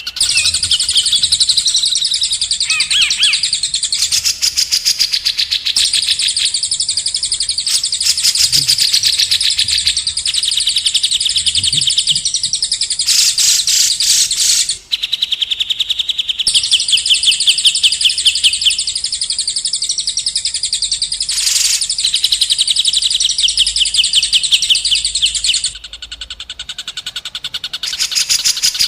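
Songbird singing long, fast trills of high, rapidly repeated notes, in segments that switch abruptly, with a short break about halfway through and a softer stretch near the end. It is a recorded masteran (tutor song) of trills and rolls used to train white-rumped shamas.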